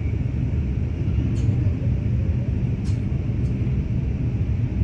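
Steady low rumble of a passenger train running along the line, heard from on board, with a few faint short ticks.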